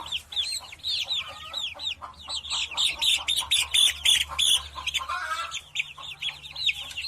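Rapid, high-pitched bird chirping: a dense run of short calls, several a second, over a faint low hum.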